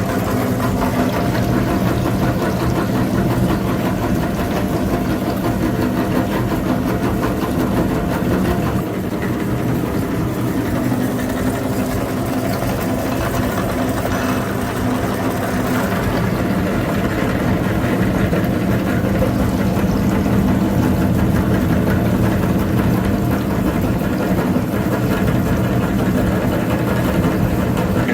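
Small tractor's engine running steadily at a constant speed.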